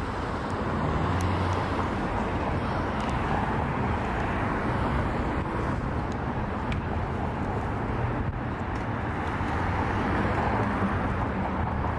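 Steady road traffic noise, an even wash of sound with no single event standing out.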